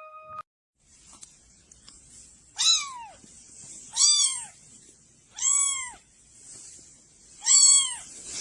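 A cat meowing four times, about a second and a half apart, each meow rising then falling in pitch, over a faint steady hiss.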